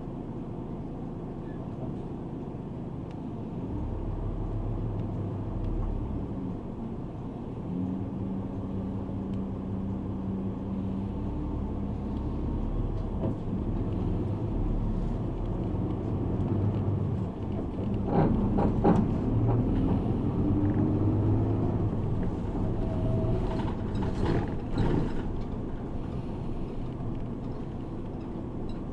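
A route bus running on the road, heard from inside the passenger cabin: a steady engine hum and road rumble whose note changes pitch several times as the bus speeds up and shifts. It grows louder a few seconds in, with bursts of rattling and clunking from the body about two-thirds of the way through and again near the end.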